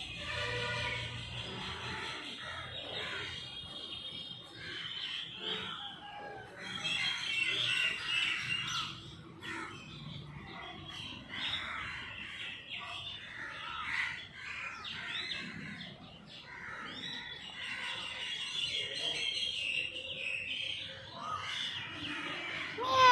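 Small birds chirping and twittering on and off, in many short high calls. Just before the end a louder drawn-out call starts, sliding down in pitch.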